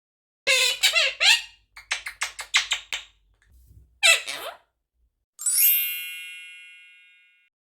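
Quaker parrot (monk parakeet) calling: a few short squeaky, rising calls, a quick run of clicky chatter, and another squeak about four seconds in. A bell chime then rings and fades away slowly.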